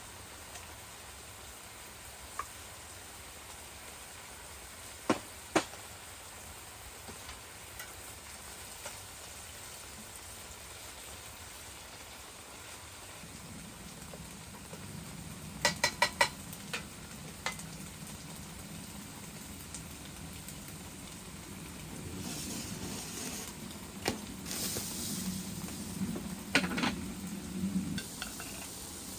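Food sizzling in a pan. Metal clinks as it is stirred, with a quick run of four ringing strikes about halfway through. A low steady hum comes in just before that.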